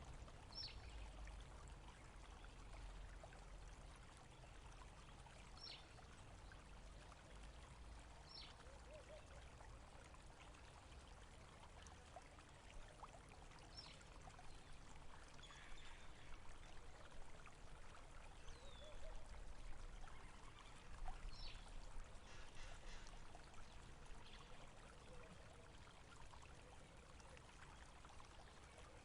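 Faint flowing water, like a small stream, with a short, high bird call that falls in pitch sounding about five times, a few seconds apart.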